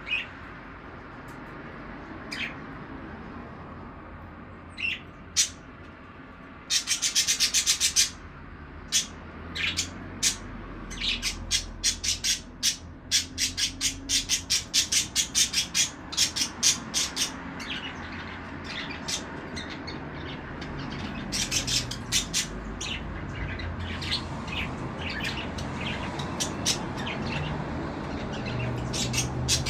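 Budgerigars chirping in short, sharp calls: a few scattered at first, a rapid chattering burst about seven seconds in, then a quick run of chirps a few per second that thins out toward the end, over a steady low background hum.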